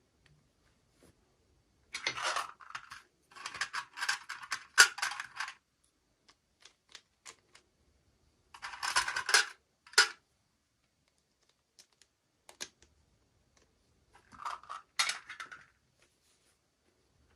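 Small plastic toy packaging being handled and opened: four bursts of crinkling and rattling, with scattered light clicks between them.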